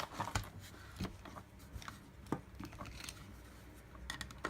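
Light plastic clicks and knocks from a vacuum cleaner's roller and axle being worked by hand into their housing, a stiff fit, with a louder knock near the end.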